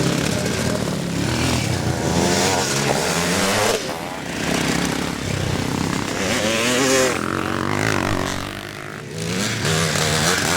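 Classic motocross bike engines racing, revving up and down with gear changes, the pitch climbing steeply about a third of the way in and again past the middle.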